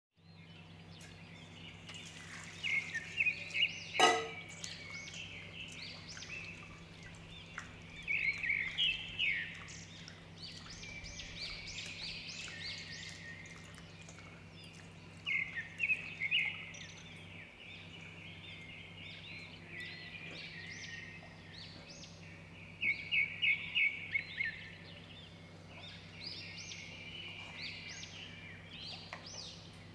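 Birds chirping in short bursts of quick, high notes, recurring every few seconds over a steady low hum. One sharp knock about four seconds in.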